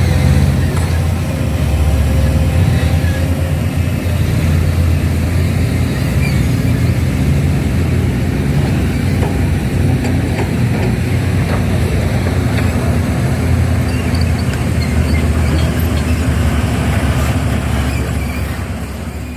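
Heavy diesel engine of earthmoving equipment running steadily with a deep, even hum and a few faint knocks, fading out near the end.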